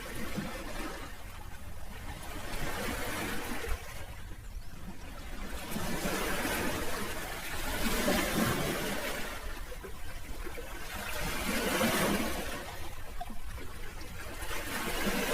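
Sea waves washing in, the hiss of the surf swelling and fading every few seconds.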